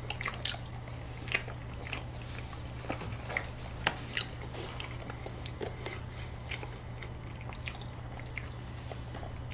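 A person chewing and biting into a soft cream-topped dessert pastry, heard close up as a string of small, irregular wet mouth clicks. A steady low hum runs underneath.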